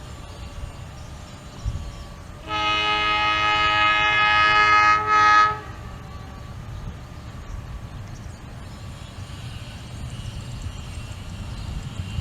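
Locomotive horn of an Indonesian train sounding several tones at once: one long blast of about two and a half seconds, then at once a short second blast, over a low rumble.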